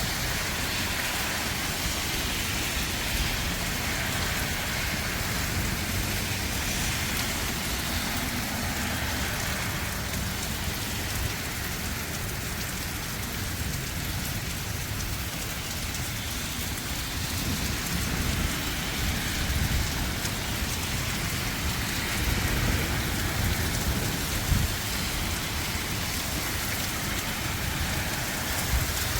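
Heavy rain falling steadily, with strong wind gusting over the microphone as an uneven low rumble that swells near the end.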